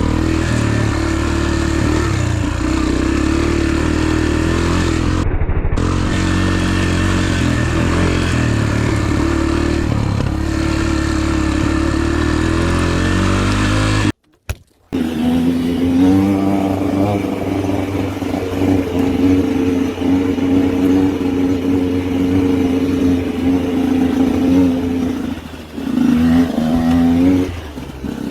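A motorcycle engine running steadily while riding. After a short break about 14 seconds in, a motorcycle engine revs up and holds a steady note, with a couple of quick rev changes near the end.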